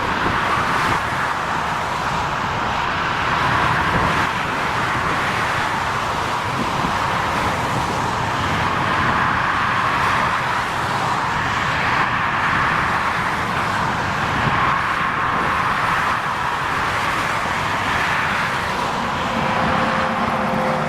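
Jet engines of a Boeing 767-300ER airliner running, a steady loud rushing noise with a faint constant whine.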